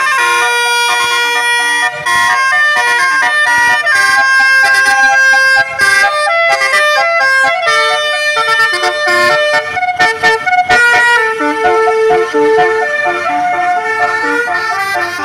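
Indonesian bus 'telolet' musical air horn playing a melody of stepped, overlapping tones.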